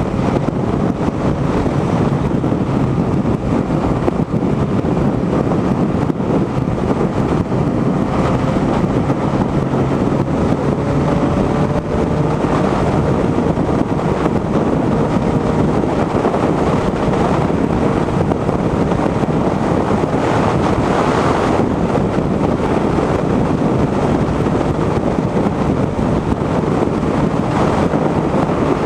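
Motorcycle cruising at highway speed: heavy wind rushing over the rider's microphone, with the engine running steadily underneath.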